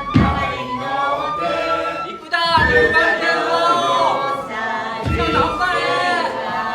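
A group of voices singing together with no accompanying instruments, with a low thud about every two and a half seconds.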